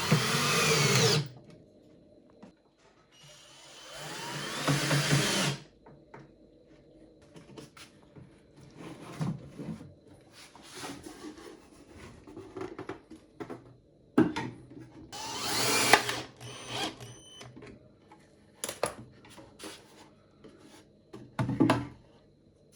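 An electric drill running in short runs of one to two seconds, its pitch bending as it loads, with knocks and clicks of handling wood and hardware between runs.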